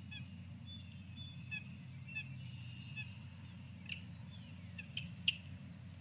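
Wild birds calling at a feeder, heard through the live feeder cam's outdoor microphone over a steady low hum. A run of short clear notes comes first, then a few sharper, louder calls and downward-sliding notes in the last two seconds.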